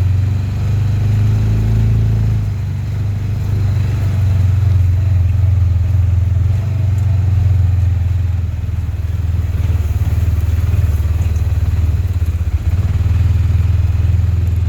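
UTV engine running steadily as the vehicle drives across rough ground, easing off briefly about two seconds in, with a single knock near the end.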